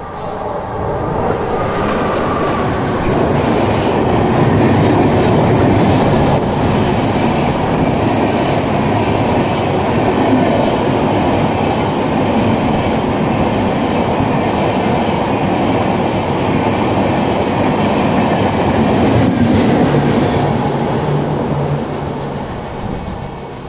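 An express train of red LHB coaches hauled by a WAP4 electric locomotive runs through a station at speed. The loud, steady rumble and rattle of wheels on rail builds as it arrives, holds while the coaches pass, and fades near the end as the last coach draws away.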